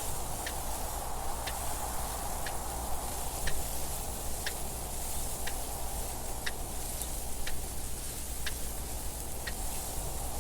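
Mechanical clock ticking steadily, one tick a second, over a constant hiss of wind noise.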